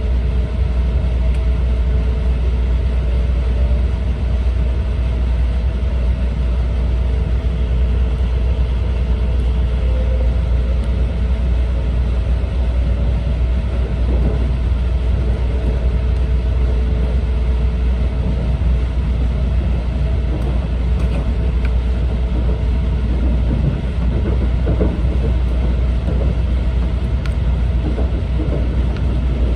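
Steady low rumble of an E4 series double-decker Shinkansen running on the line, heard inside the passenger cabin, with a faint steady hum over it.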